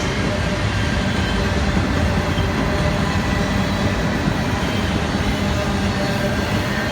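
Freight train rolling past close by: a steady, loud rumble of wheels on rail, with faint thin ringing tones above it.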